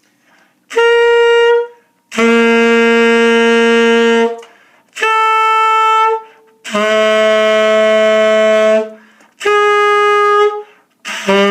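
Tenor saxophone played with the octave key held down, in the octave-key exercise: a short upper-octave note, then the same fingering lipped down to a longer note an octave below. The pattern repeats three times, each pair a step lower, working down the horn.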